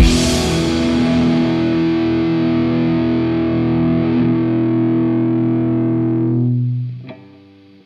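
Distorted electric guitar, in the closing chord of a song: the chord is struck once and left to ring, then fades out about seven seconds in.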